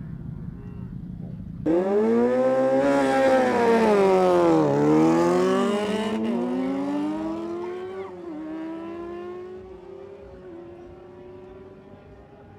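Superbike engines launching hard a little under two seconds in and revving up through the gears, with sharp drops in pitch at each upshift (three shifts), then fading as the bikes pull away.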